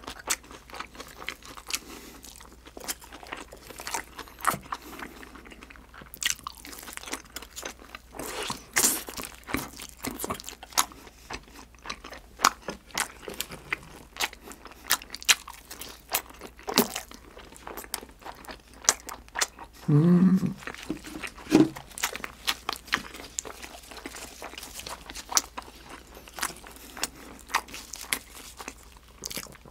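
Close-up chewing of sauce-glazed grilled freshwater eel: wet mouth clicks and smacks throughout. A brief low hum from the eater comes about twenty seconds in.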